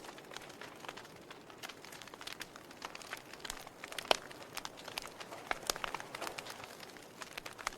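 Wood fire in a fireplace crackling: irregular sharp pops and snaps of burning logs over a soft steady hiss, with one louder pop about four seconds in.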